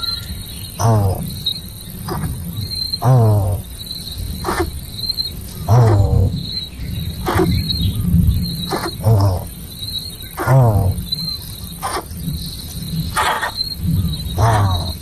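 Insects chirping in a steady rhythm, about three chirps every two seconds. Short falling animal calls, each with a low thump beneath it, come every second or two.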